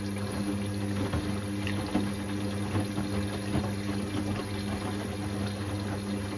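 Indesit IWC6165 washing machine mid-cycle: a steady low mechanical hum with water rushing and splashing in the drum, broken by small irregular splashes.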